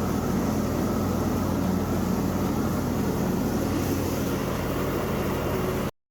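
Riding lawn mower engine running steadily, cut off abruptly near the end.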